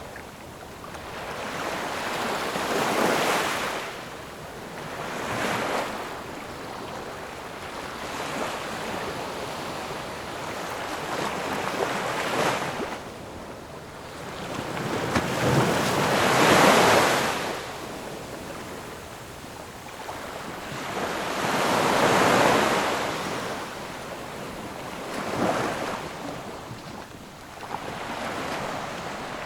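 Ocean waves breaking and washing ashore, the surf swelling and falling away every few seconds in broad rushes of noise, the largest a little past halfway. Wind noise on the microphone runs underneath.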